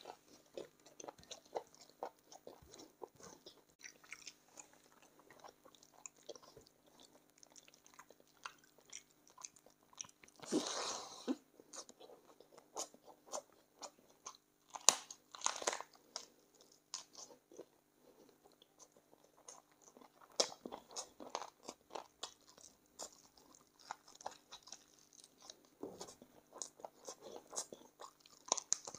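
Close-up chewing and biting on spicy chicken feet: wet smacks and small crunches of skin and cartilage come one after another. A louder, longer stretch of noise comes about ten seconds in, and a sharp crack about fifteen seconds in.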